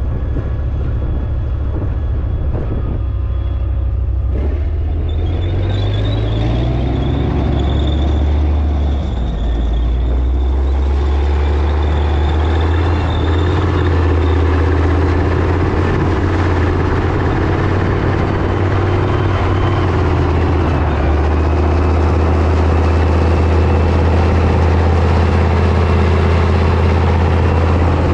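Leopard 1 tank's V10 multi-fuel diesel engine running with a deep rumble. Its pitch rises about five seconds in, and it runs steadily and a little louder through the second half.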